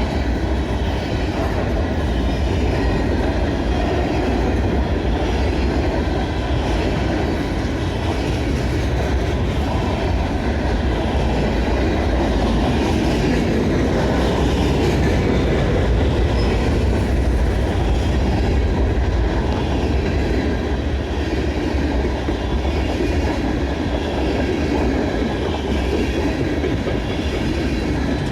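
Mixed freight train's cars rolling steadily past, wheels clattering over the rails.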